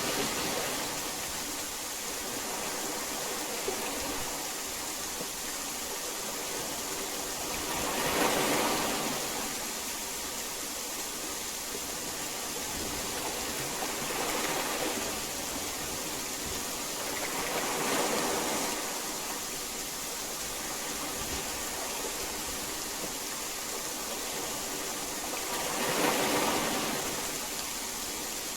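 Heavy rain falling steadily as a dense hiss, swelling louder four times in gusts of heavier downpour.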